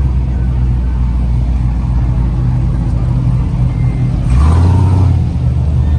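Car engine running steadily, with a short burst of revving between about four and five seconds in.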